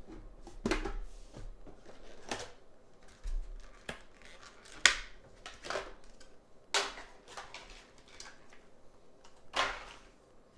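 Trading cards and their plastic packaging being handled on a table: a scatter of sharp clicks and taps over soft rustling, about six louder ones spread through, the loudest about five seconds in.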